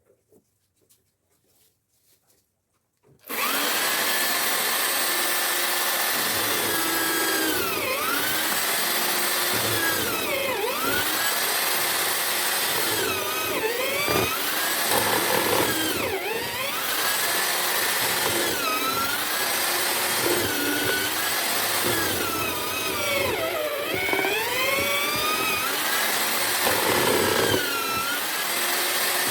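Homemade drill-powered mortising machine starting about three seconds in and then running steadily. Its pitch dips and recovers every two to three seconds as the motor is loaded while cutting mortises in wood.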